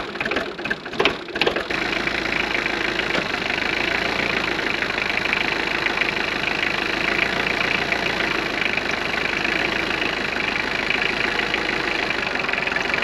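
Kubota tractor's diesel engine on a cold start in freezing weather, knocking unevenly at first, then settling into a steady idle about two seconds in.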